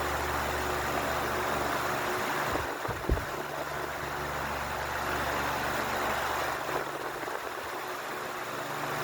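Ventisol New 60 cm wall fan running: a steady rush of air from the blades over a low motor hum. A single short knock sounds about three seconds in.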